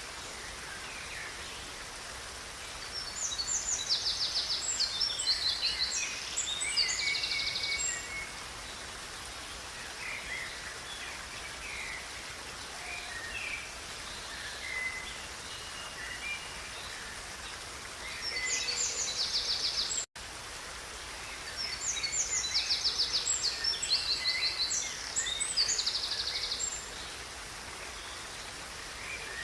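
A songbird sings long phrases full of fast trills, with scattered short calls between them, over the steady rush of river water. The sound drops out for an instant about two-thirds of the way through.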